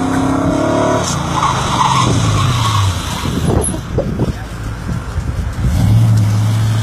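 Car engine at high revs on an autocross run, its note held about a second and then falling as the driver lifts off, with tire skidding. A lower, steady engine note comes in near the end.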